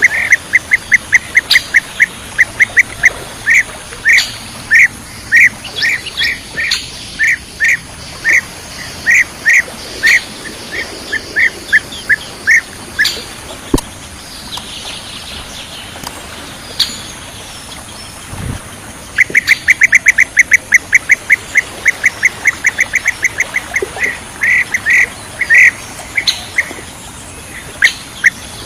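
Bee-eater calls: short chirping notes repeated in long runs. The calls stop for several seconds in the middle, then return as a faster run.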